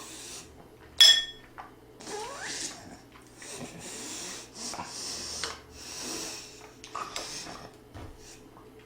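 Eating at a table: a sharp, ringing clink of a utensil against a dish about a second in, then repeated breathing and chewing noises.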